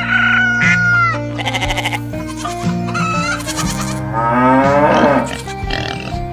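Farm animal call sound effects, sheep bleats among them, one after another over background music with sustained notes. A longer rising call comes about four seconds in.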